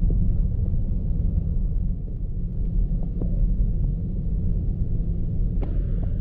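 Strong gusty wind buffeting the microphone: a loud, unsteady low rumble with a few faint clicks.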